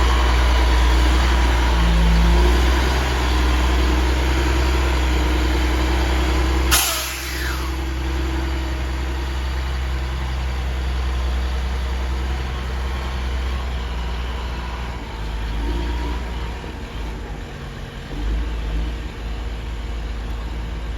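Stewart & Stevenson M1090 dump truck's diesel engine running steadily. About seven seconds in there is one short, sharp sound that sweeps quickly down in pitch, and the engine is a little quieter after it.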